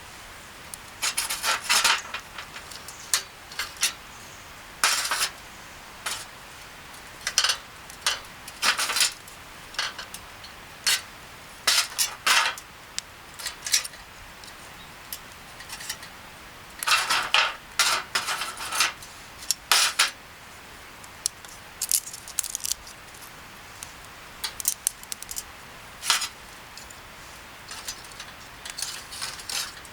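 Utensils clinking and scraping against dishes in short, irregular bursts with pauses between.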